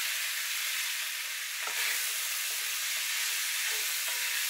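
Lamb and diced onion sizzling in a hot cast iron pot, with a wooden spoon stirring and giving a few light knocks.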